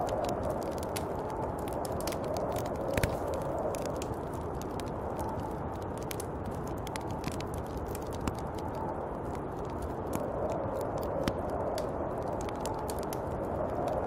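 Snowstorm wind blowing in slow swells around the hut, with frequent small crackles and ticks throughout.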